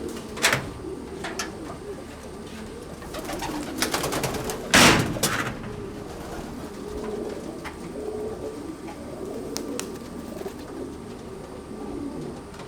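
Domestic pigeons cooing steadily in a loft. A few knocks sound over the cooing, and a louder clatter comes about five seconds in.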